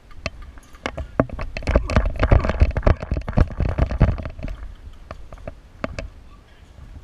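A run of irregular sharp clicks and knocks, densest in the middle, over a low rumbling noise that swells and fades.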